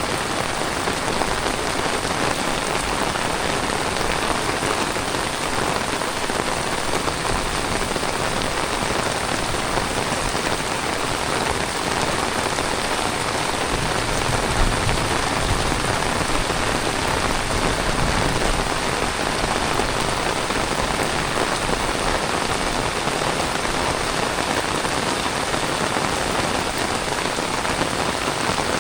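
Heavy tropical rain falling steadily, a dense, even hiss of drops on the ground and surfaces.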